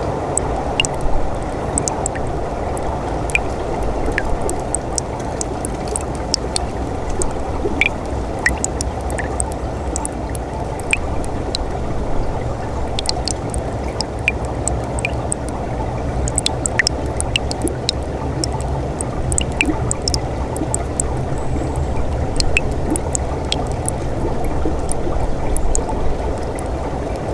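Winter mountain stream flowing steadily, gurgling and splashing, with many small drips and splashes ticking over the rush of the water.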